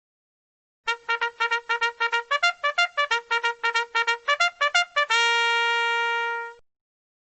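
Trumpet sound effect: a fanfare of fast tongued notes, about six a second, mostly on one pitch with a few jumps to higher notes, ending in one long held note that fades out.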